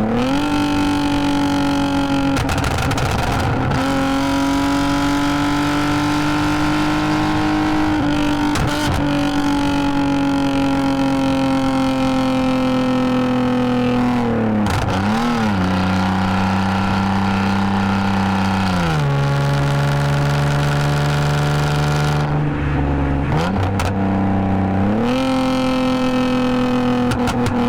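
2010 Lexus IS250 AWD's V6 running through an aftermarket exhaust with valved mufflers while driving. The engine note holds fairly steady at first, drops in two steps partway through, then climbs back up in two steps near the end.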